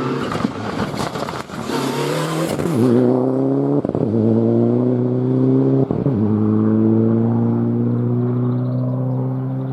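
Four-wheel-drive rally car engine running hard: a rough, crackly rush of noise for the first three seconds, then a loud, steady engine note held at high revs, cut briefly twice, at about four and six seconds in.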